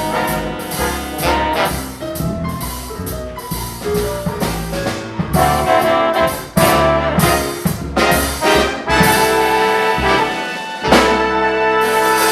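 Live big band playing swing, the trumpet and trombone section over a drum kit with punchy rhythmic accents, then settling into a long held chord about eleven seconds in.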